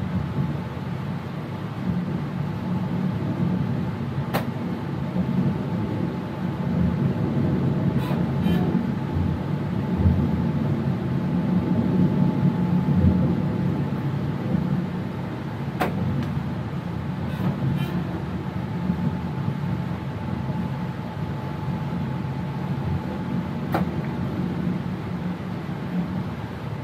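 Electric passenger train running, heard from inside the driver's cab: a steady low rumble with a faint constant whine, and a few sharp clicks scattered through.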